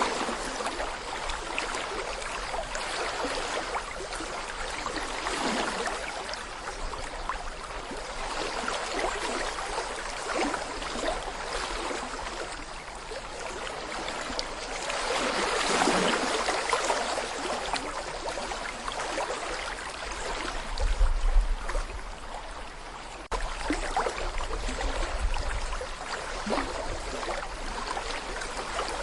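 Babbling brook: shallow water flowing and gurgling over stones, swelling louder for a few seconds around the middle. Brief low rumbles come about two-thirds of the way through.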